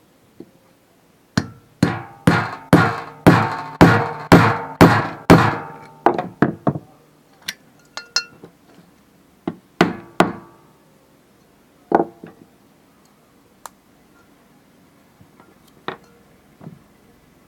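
Hammer blows on metal driving a ceiling fan's bearing out of its housing, with wax packed in behind it. About nine ringing strikes come at roughly two a second, then a few quicker, lighter taps, then a handful of single blows spaced out.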